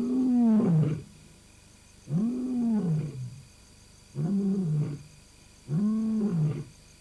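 African lion roaring: a series of deep roars, each about a second long and about two seconds apart, each swelling and falling in pitch. This is a territorial roar, the lion identifying himself, calling his pride and warning off others.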